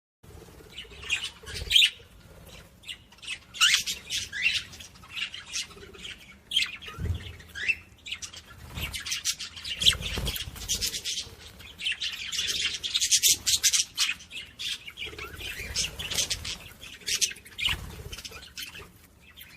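A flock of small pet parrots chattering: rapid, overlapping chirps and squawks, with a few soft low thumps.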